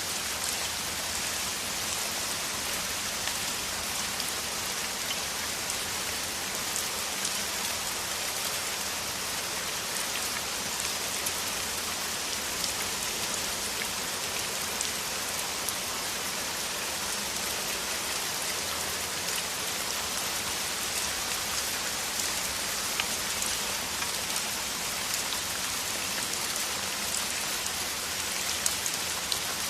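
Heavy rain falling steadily on the ground, a dense even hiss with individual drops ticking through it and a few sharper drops near the end.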